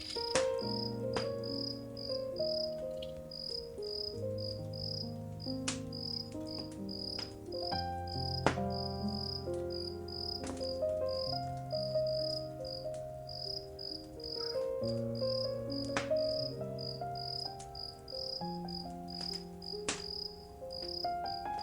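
Wood fire crackling with scattered sharp pops, over crickets chirping steadily about twice a second and soft held music notes.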